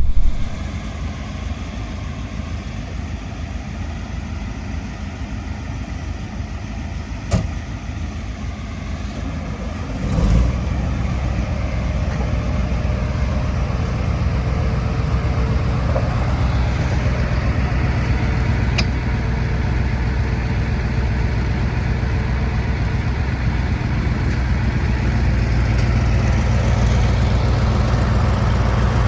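Massey Ferguson V8 diesel tractor engine running steadily with a low rumble; it gets louder about ten seconds in and keeps building slowly. A single sharp click comes about seven seconds in.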